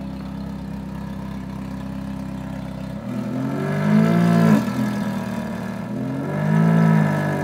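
Ferrari F430's 4.3-litre V8 idling through an aftermarket Fabspeed exhaust, then revved twice in short throttle blips, one about four seconds in and one near the end, each rising and falling back to idle.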